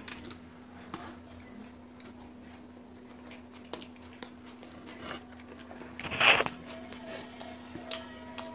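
Close-up wet chewing and mouth sounds of someone eating soft minced-meat kebab and pav bread with scattered small clicks, and one loud smack about six seconds in. A steady low hum runs underneath.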